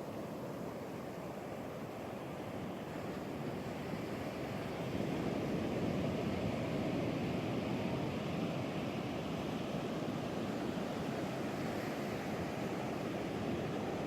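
Ocean surf washing onto a beach: a steady rush of breaking waves that swells louder about five seconds in.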